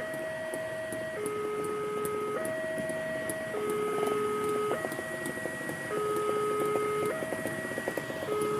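Electronic warning alarm at a railway level crossing, alternating between a higher and a lower tone, each held just over a second, signalling that a train is approaching.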